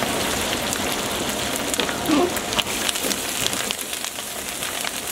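Curry leaves and dried red chillies frying in hot oil in a steel kadai as a ladle stirs them: a steady sizzle full of sharp crackling pops.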